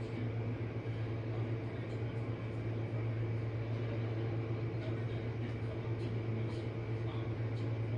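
Jenn-Air dishwasher running mid-cycle: a steady low hum from its pump motor under a hiss of water inside the tub.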